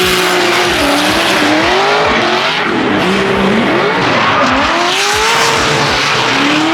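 Drift cars sliding past at close range. Several engines rev up and down, their pitches rising and falling across one another, over a constant loud hiss of tyres squealing.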